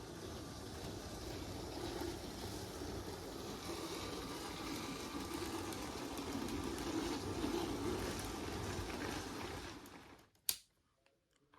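LEGO train running on plastic track: a steady motor-and-wheel rattle that swells a little, then fades out about ten seconds in. A single sharp click follows near the end.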